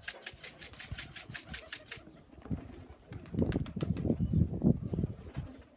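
Pigeons cooing in low, pulsing calls from about three seconds in. Before that comes a fast, even clatter of about eight strokes a second that stops about two seconds in.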